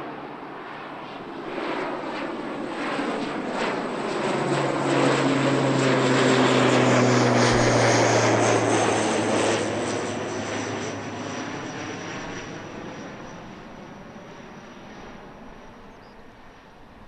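An airliner's engines passing close by: the noise swells to a peak about seven seconds in, then fades, with the engine tones dropping in pitch as it goes past.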